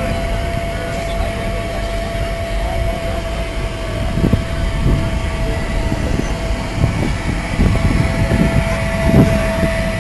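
Modified Honda S2000's four-cylinder engine idling with a steady low rumble, with a few uneven low swells in the second half.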